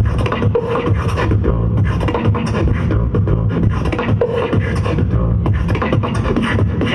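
Beatboxing: a rapid stream of percussive mouth clicks and snares over a continuous deep bass beat, with a short hummed tone now and then.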